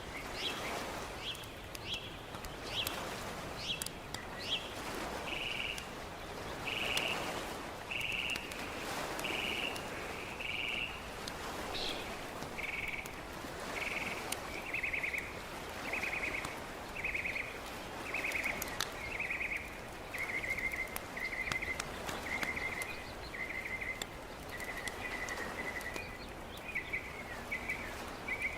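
A frog calling at the lakeside, a short call repeated about once a second, the calls turning into quick trills and dropping slightly in pitch about halfway through, with scattered sharp clicks over a steady background hiss.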